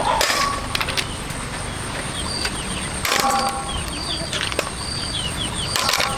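Outdoor rural ambience: small birds chirping in short falling notes over a steady high thin tone and a low background rumble, with three brief knocks or rustles near the start, around the middle and near the end.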